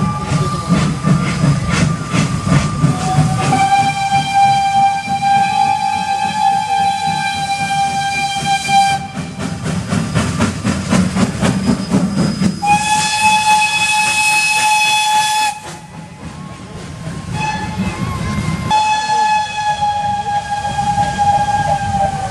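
Steam locomotive whistle sounding several long, steady blasts, with steam hissing loudest during the middle blast and a rhythmic beat from the locomotive underneath.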